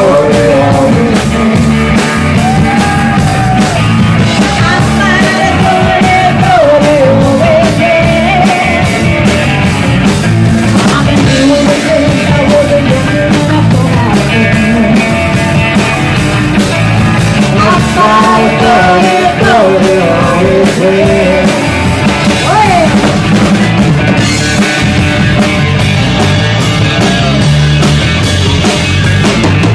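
Live rock band playing loud: drum kit with a steady cymbal beat under bass and electric guitars, with a wavering melody line over the top.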